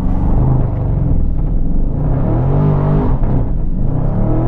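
2020 Dodge Charger Scat Pack's 6.4-litre V8 at full throttle in a launch-control launch from a standstill, the rear tyres fighting for traction. The engine pitch climbs, drops about three seconds in, then climbs again.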